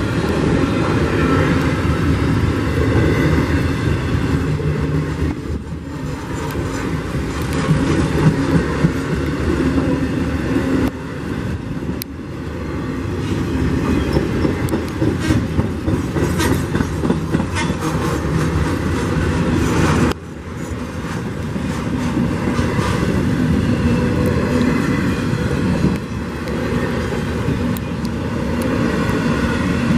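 Norfolk Southern intermodal freight train's cars rolling past close by: a steady loud rumble and rattle of steel wheels on the rails, with a few brief dips in loudness.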